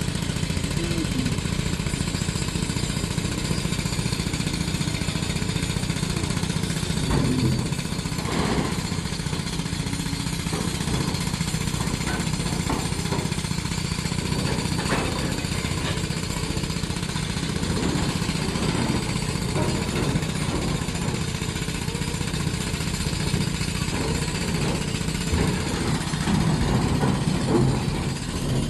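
Diesel engine of a working earthmover running steadily, with a fast clatter, and a few short knocks from the machine.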